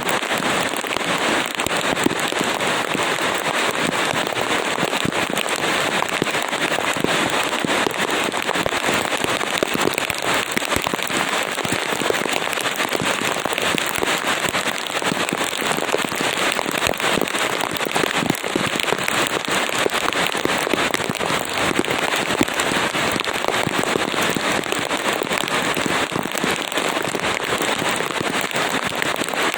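Steady rain with a dense, unbroken crackle of drop impacts.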